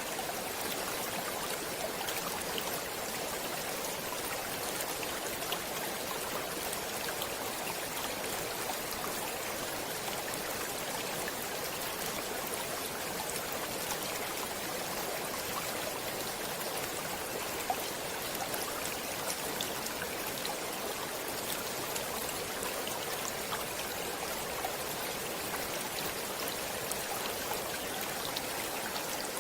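Running stream water, a steady even rush with small splashes and drips scattered through it.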